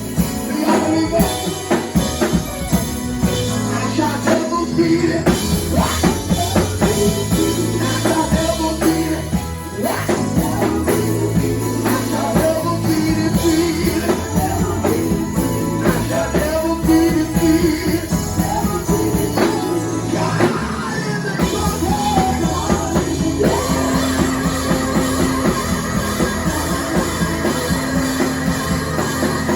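Band music with a drum kit and singing voices, at a steady beat.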